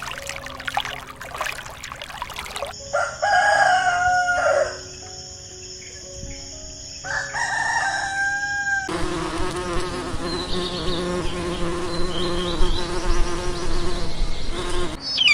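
A rooster crowing twice, one long call about three seconds in and another about seven seconds in, followed by steady insect buzzing for the last six seconds.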